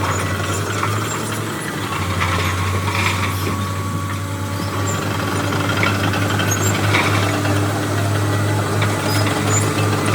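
Heavy diesel engine of earthmoving machinery running steadily, with a deep hum and scattered clicks and knocks.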